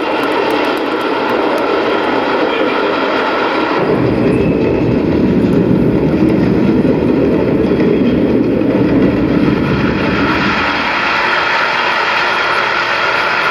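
Train rumbling in a film soundtrack, played through arena loudspeakers: a steady noise that deepens into a heavier rumble about four seconds in and eases back near the end.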